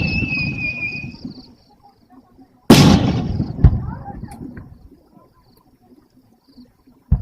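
Aerial fireworks shells bursting. The echoing rumble of one boom dies away with a high whistle sliding slowly down. A second loud boom comes about a third of the way in, then a sharper crack a second later, with the rumble fading over the next couple of seconds.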